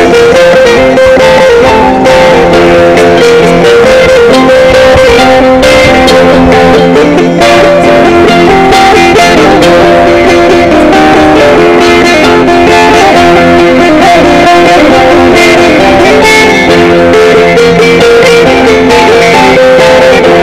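Sape, the Dayak boat-shaped plucked lute of Borneo, playing a continuous melody of short plucked notes over a steady held lower note.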